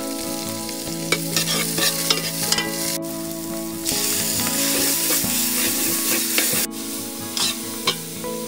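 Lemongrass, shallots, garlic and chillies sizzling in hot oil in a large pot, with a metal ladle stirring and clinking against the pot. The sizzle grows louder about four seconds in, as paste goes in, and drops suddenly near seven seconds.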